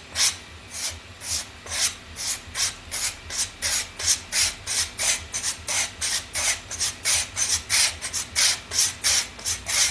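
Steel straight razor blade being stroked back and forth on a leather strop to refine its edge: quick, even rubbing swishes, about three a second.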